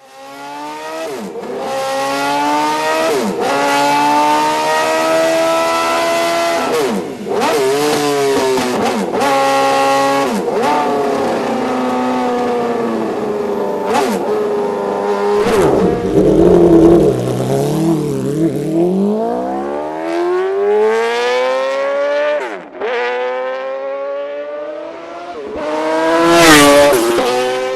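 The PGM V8 motorcycle's 2.0-litre 90-degree V8, built from two Yamaha R1 cylinder banks and fitted with a titanium Akrapovič exhaust, accelerating hard. The pitch climbs and then drops sharply again and again as it shifts up through the gears, and it ends in a loud burst of revs near the end.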